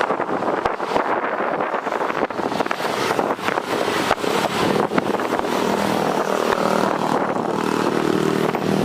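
Steady engine drone under wind buffeting the microphone, with a hum of several steady tones growing clearer in the second half.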